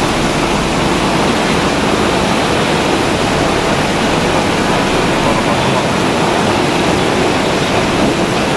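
Steady, loud rush of water from heavy rain and flooding, an even hiss that does not let up.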